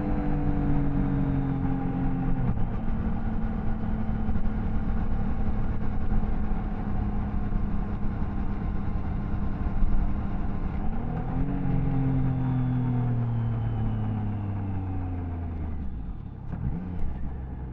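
Triumph Tiger Sport 660's inline three-cylinder engine and exhaust while riding. The engine note drops sharply about two and a half seconds in, holds steady, jumps up about eleven seconds in, then falls steadily and grows quieter near the end.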